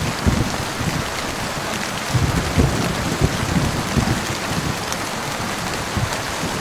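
Heavy rain falling steadily, with irregular low knocks of drops striking a nearby surface.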